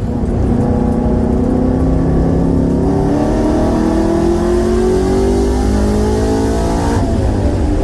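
Shelby GT350R's 5.2-litre flat-plane-crank V8 pulling hard under acceleration, its pitch climbing steadily through the revs, then dropping abruptly near the end as it shifts up a gear.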